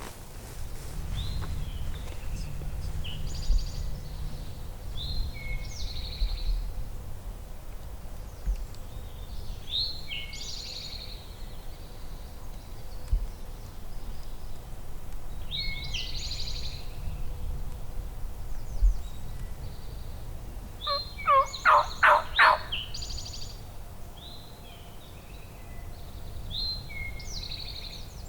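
Wild turkey gobbler gobbling once, a loud rapid rattle about three-quarters of the way through. A songbird sings short high phrases about every five to six seconds.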